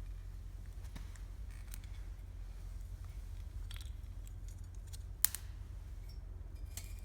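Wood campfire crackling: scattered small pops and one sharp pop about five seconds in, over a steady low rumble.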